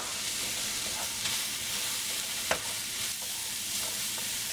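Broccoli and pineapple sizzling steadily in oil in a frying pan, with lemon juice just added. A utensil clicks against the pan once, about two and a half seconds in.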